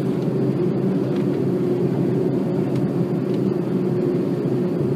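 Jet airliner engines running, a steady low drone with a constant hum.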